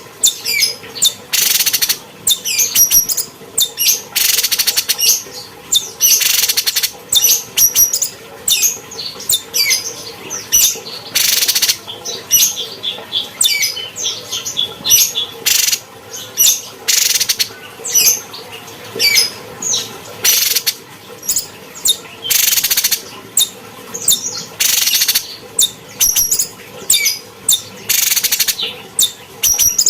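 Cucak cungkok songbird singing continuously: rapid high chirps and whistled phrases, broken every second or two by harsh rasping bursts about a second long.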